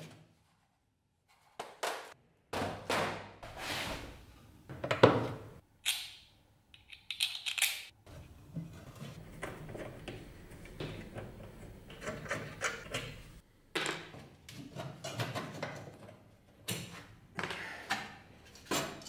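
Handling noises from an antique wooden ice box being moved and taken apart: an irregular series of knocks, thunks and scrapes, the sharpest knock about five seconds in.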